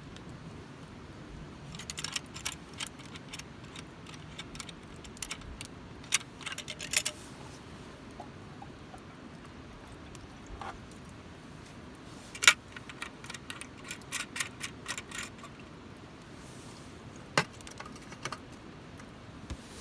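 Campfire firewood crackling and popping in irregular bursts of sharp cracks, the loudest single pop about twelve seconds in, over a steady low background.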